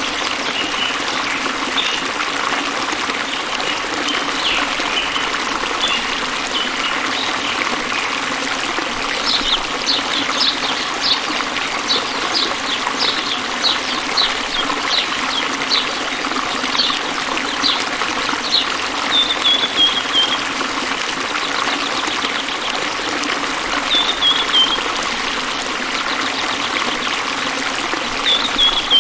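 Water trickling and flowing steadily, with a bird calling over it: a quick run of short high chirps, about two a second, through the middle, then a few short falling notes near the end.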